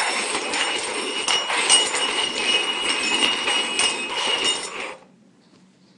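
Upturned glasses being slid and shuffled across a tabletop: a continuous scraping with many small clicks and a faint glassy ring, stopping abruptly about five seconds in.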